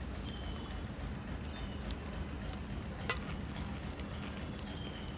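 A person chewing a mouthful of crunchy raw lettuce salad: faint crunches, with one sharper click about three seconds in, over a steady low background hum.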